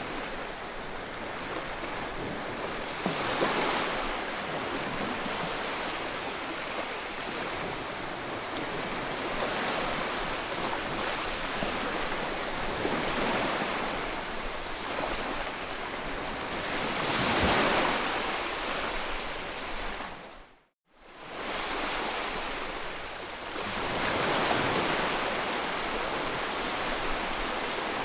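Sea waves breaking and washing in, a continuous surf with louder breakers swelling up every several seconds. The sound drops out abruptly for under a second about three quarters of the way through, then the surf resumes.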